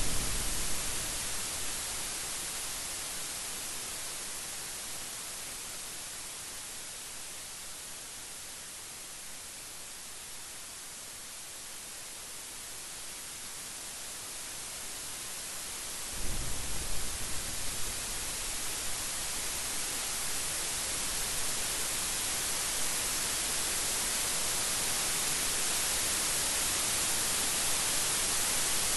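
Steady heavy rain hiss with thunder: a rumble dies away in the first second, then a new thunderclap breaks about sixteen seconds in, peaking sharply a few times over the next two seconds and rolling on low beneath the rain.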